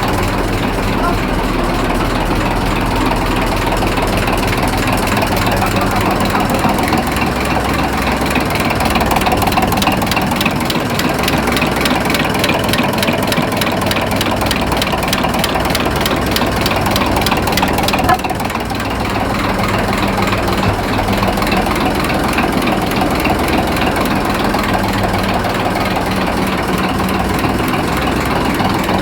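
An engine running steadily at idle with a fast mechanical clatter, dipping briefly about two-thirds of the way through.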